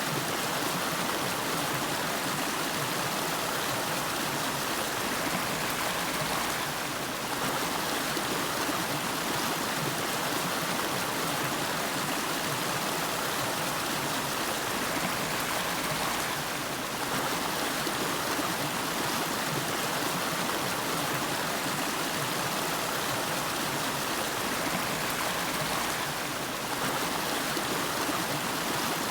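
River water flowing: a steady rush of running water, dipping slightly in level about every ten seconds.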